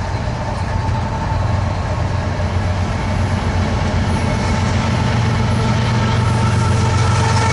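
Diesel locomotives at the head of a freight train, GE-built BNSF units, approaching with a steady low engine drone that grows louder.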